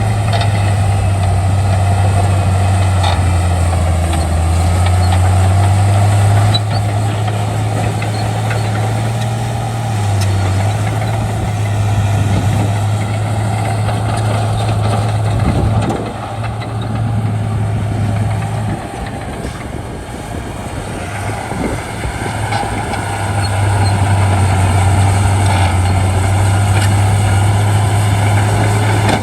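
Bulldozer's diesel engine running steadily under load. The engine note drops and eases roughly halfway through, then comes back up to full strength near the end.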